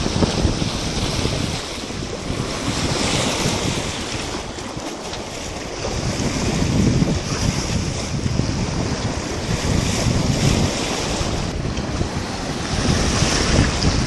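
Strong wind buffeting the microphone over the rush of water and waves around a sailboat, swelling and easing in gusts.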